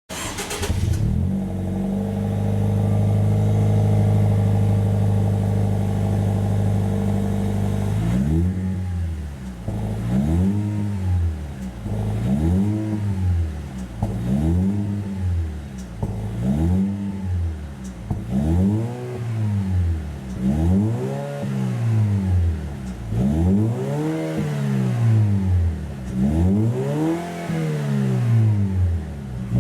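Toyota Crown ARS220's 2.0-litre turbocharged four-cylinder engine breathing through an aftermarket straight-through quad-tip rear muffler. It starts up in the first second and idles steadily. From about eight seconds in it is revved repeatedly, roughly one blip every two seconds, each rising and falling in pitch.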